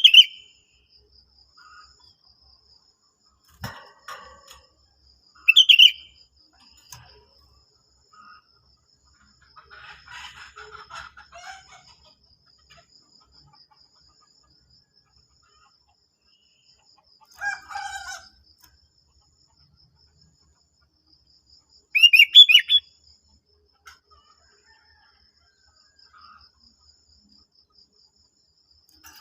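Sooty-headed bulbul (kutilang) singing in short, separate phrases with pauses between: loud ones at the start, about six seconds in and about 22 seconds in, with fainter calls between. A faint, steady, high insect drone runs underneath.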